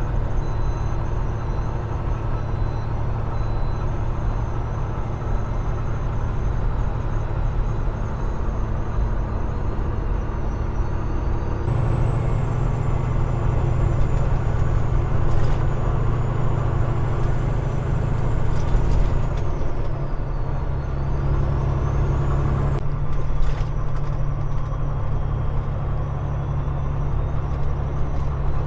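Peterbilt 389 glider's diesel engine running under way, heard from the cab as a steady low drone. Its note changes and grows louder about twelve seconds in, then shifts again about ten seconds later.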